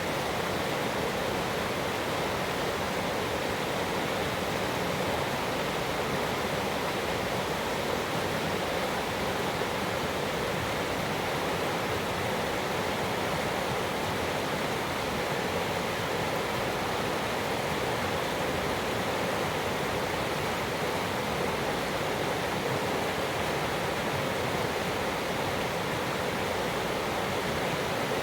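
Mountain creek water rushing, a steady, unbroken noise.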